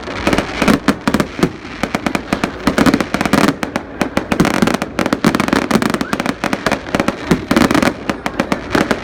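Fireworks display going off in a rapid, continuous barrage of sharp bangs and crackles, many per second.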